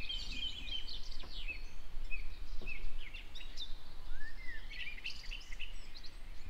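Several songbirds singing in the trees, a busy run of short chirps, whistles and trills, over a low steady rumble.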